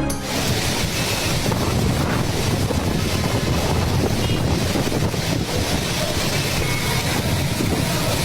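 Heavy rain pouring down: a loud, steady rushing hiss.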